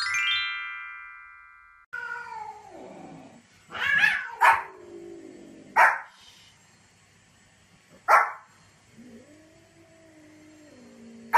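A bright chime rings and fades over about two seconds. Then a small white Pomeranian gives a few sharp, loud yapping barks, while a cat meows, with one long drawn-out meow near the end.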